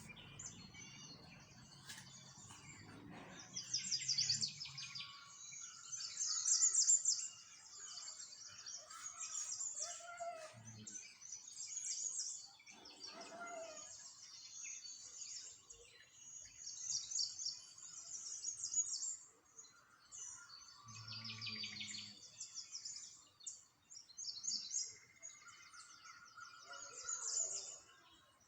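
Small songbirds chirping and singing, with many quick high-pitched trills repeating one after another among softer calls.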